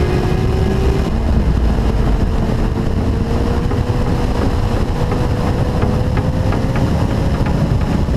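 Suzuki GSX-R1000 inline-four engine running on the move, with a dense low rumble beneath it. The engine note climbs slowly and steadily as it pulls.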